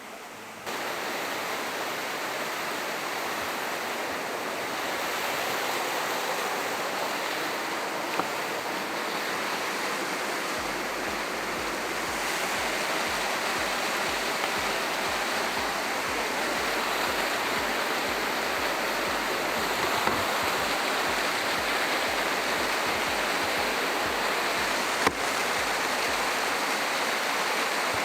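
Steady rush of falling water from a waterfall, which comes in abruptly just after the start and carries on evenly, with a single sharp click near the end.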